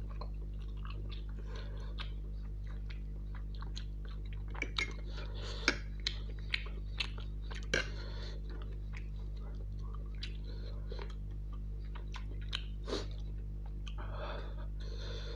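Close-miked chewing of saucy chicken Maggi noodles, with wet mouth clicks and several sharp clinks of a metal fork on the plate, loudest in the middle and again near the end. A steady low hum runs underneath.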